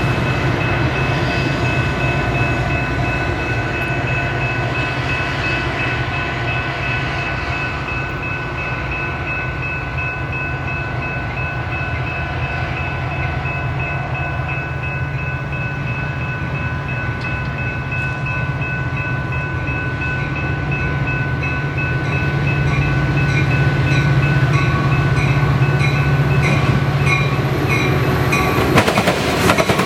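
Train rolling past, with a steady low rumble of the train and wheels clicking over the rails, and steady high ringing tones above it; it grows a little louder about two-thirds of the way through.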